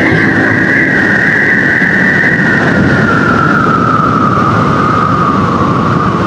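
Honda XR150 dirt bike's single-cylinder engine running on the move, with wind and road noise. Its note falls slowly and steadily as the bike slows.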